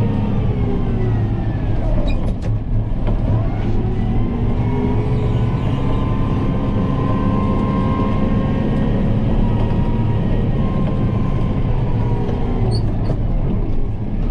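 Kubota M7060 tractor's four-cylinder diesel engine running steadily while moving snow, its pitch dipping and rising as the load and revs change.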